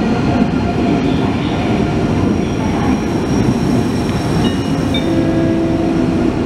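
ICE high-speed electric train rolling slowly into the platform: a steady low rumble of wheels on rail with a faint whine from the drive. A brief high squeal comes about four seconds in.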